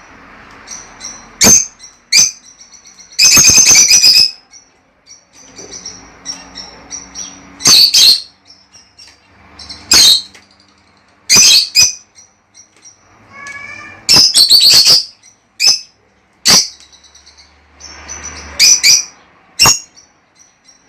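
Lovebirds calling: loud, shrill, very short calls every second or two, with softer chattering chirps in between. This is the kind of flock call played to stimulate them to breed.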